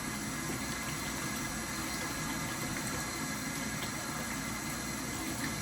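Steady hum and hiss of a pot of cabbage and chicken cooking on the stove, with water in the pot.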